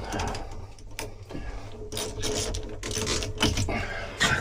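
Irregular clicks and knocks of hand work on pipe fittings and hoses, over a steady low machinery hum.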